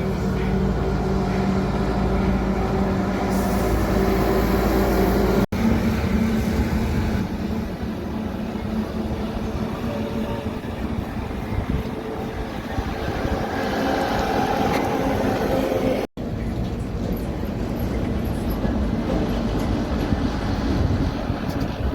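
Trucks running and driving past on the road, in three stretches joined by two abrupt cuts about five and sixteen seconds in. The first stretch holds a steady engine note.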